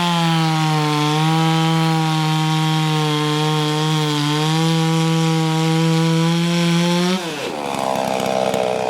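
Farmertec MS440 (Stihl MS440 clone) two-stroke chainsaw running at high revs as it cuts wood, its pitch sagging slightly now and then under load. About seven seconds in the throttle is released and the revs drop away quickly to a rougher, slower running.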